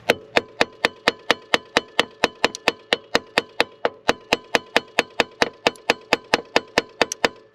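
Rapid, even hammer taps, about four strikes a second, each with a short metallic ring, tapping a stuck EGR valve loose from its housing.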